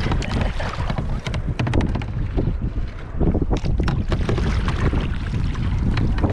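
Wind rumbling on the microphone over river water splashing around a kayak, with many short sharp splashes.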